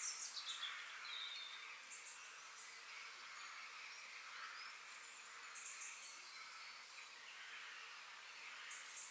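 Forest ambience: a soft, steady chorus of distant birds and insects, with short high chirps now and then. The loudest chirps come right at the start, together with a quick falling whistle.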